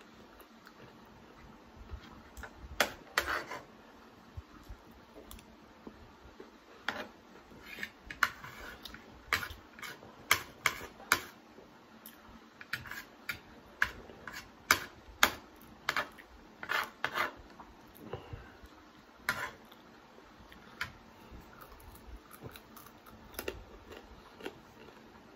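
Eating crispy fried chicken wings: irregular sharp crunches and clicks of biting and chewing, thickest in the middle and thinning out near the end.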